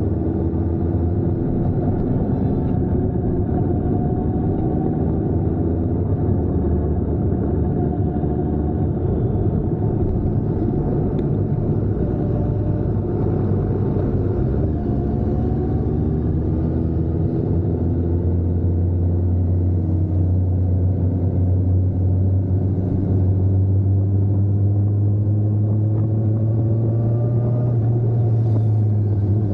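A vehicle engine runs steadily with a deep hum, its pitch drifting and then slowly rising over the last ten seconds or so.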